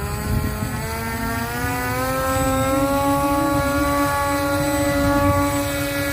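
Homemade battery-powered model airplane's electric motor and propeller whining, the pitch rising over the first two seconds and then holding steady at high throttle, over a low rumble.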